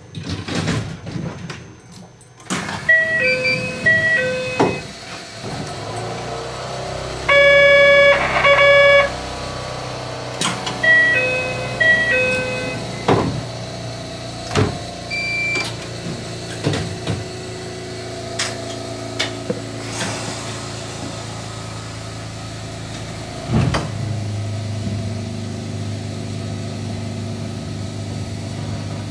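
Narrow-gauge train at a station: two short electronic chimes, a loud pitched tone lasting about a second and a half between them, and scattered knocks and clicks. About three-quarters of the way through a knock is followed by a steady low motor hum as the train pulls away.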